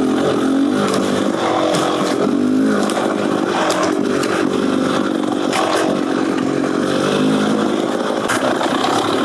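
Beta Xtrainer 300's single-cylinder two-stroke engine, breathing through an FMF Gnarly header and silencer, running under load on a trail ride, its revs rising and falling repeatedly as the throttle is worked, with scattered sharp knocks.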